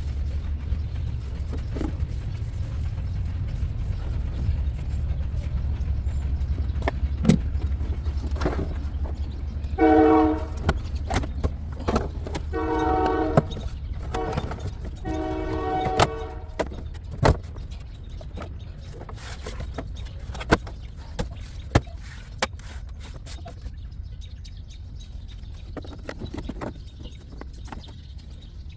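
A steady low rumble that fades in the second half, with scattered clicks and taps, and three horn-like honks of about a second each around the middle.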